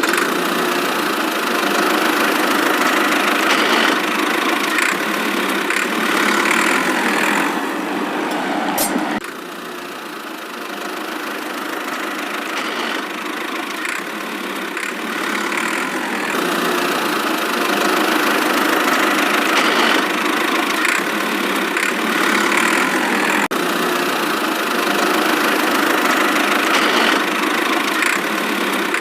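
A small engine running steadily. It eases off about nine seconds in, then picks up again.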